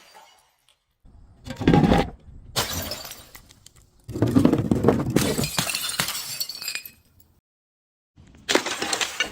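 Glass bottles breaking and shattering in several separate bursts, with abrupt silent gaps between them. A heavy smash comes about two seconds in, a long crunching shatter runs from about four to seven seconds, and another breaks near the end.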